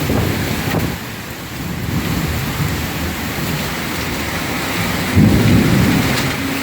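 Heavy thunderstorm rain pouring down, with a low rumble of thunder that swells about five seconds in.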